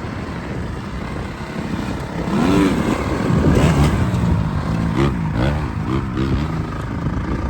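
Dirt bike engine running, its pitch rising and falling several times as the throttle is opened and closed, with a quick run of revs near the end.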